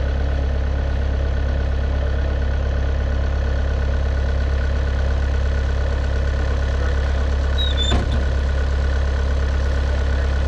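Diesel engine idling steadily, with a single short click about eight seconds in.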